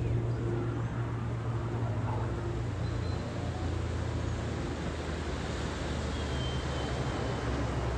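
Aircraft engine droning steadily, a low even hum with no breaks.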